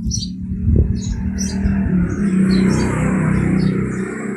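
A motor vehicle engine running close by: a steady low hum that builds over the first second and holds. Small birds chirp above it.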